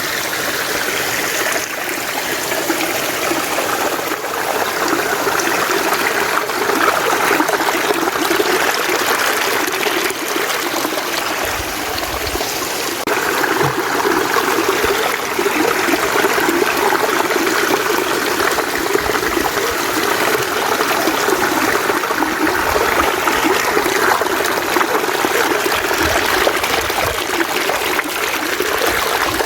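Mountain stream running over rocks: steady, continuous babbling and splashing of water, with a few brief low thumps along the way.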